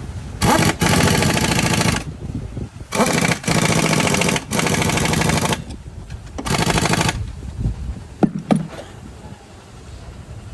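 Pneumatic impact tool rattling in three bursts, the first about a second and a half long, the second about two and a half seconds and the last short. A couple of sharp metallic clinks follow.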